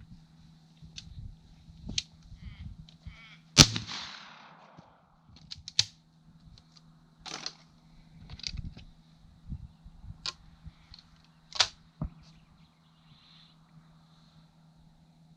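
A single loud gunshot a few seconds in, its report trailing off briefly, among several quieter sharp clicks and knocks.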